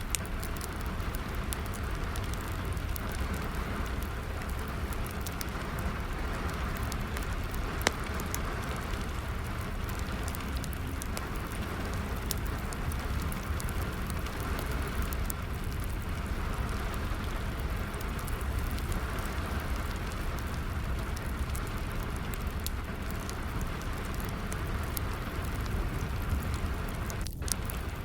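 Steady rain with a wood fire crackling through it: a constant hiss of rain and scattered sharp pops, one louder pop about eight seconds in.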